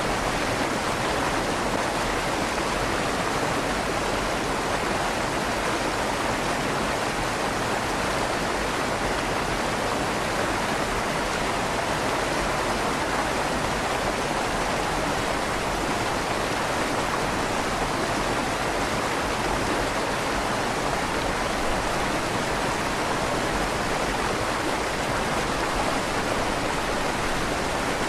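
River water flowing steadily under a stone bridge, its rushing echoing slightly off the inside of the stone tunnel.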